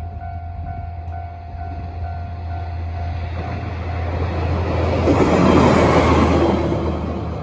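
A Watarase Keikoku Railway diesel railcar passing over a level crossing, its rumble building to a peak about five to six seconds in and then easing, over the steady ringing of the crossing's warning bell.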